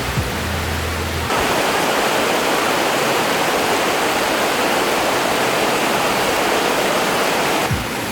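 Water rushing steadily in a forest stream, like a small cascade. It cuts in suddenly about a second in and cuts out just before the end.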